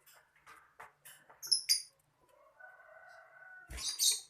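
Lovebirds chirping in sharp, high-pitched bursts, with a drawn-out call in the background. A thump and a loud shrill squawk come near the end.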